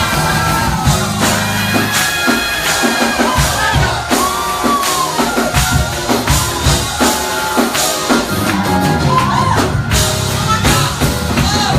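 Live gospel music: choir and voices singing over a band with drum kit, the drums hitting a steady beat.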